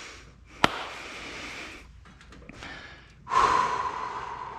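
A man breathing hard from exertion, in long heavy breaths, with one sharp click a little over half a second in. The loudest, longest breath starts just past three seconds in.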